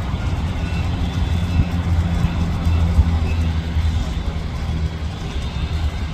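An engine running steadily, a continuous low drone.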